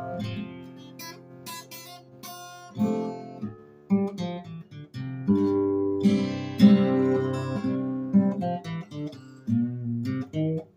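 Solo acoustic guitar played between sung lines, plucked and strummed chords ringing, with sharp attacks and pauses as the chords change.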